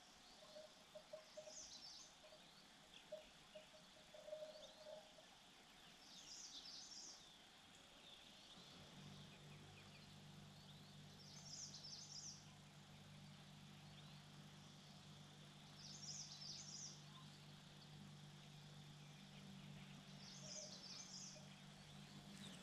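Faint outdoor background with a short high bird chirp repeated about every four to five seconds. A low steady hum comes in about nine seconds in.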